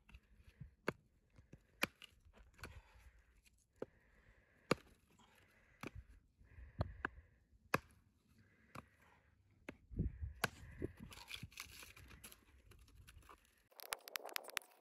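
Dry wood being snapped and broken up by hand to build a campfire: sharp, separate cracks about once a second, irregularly spaced, turning into a denser crackle and rustle near the end.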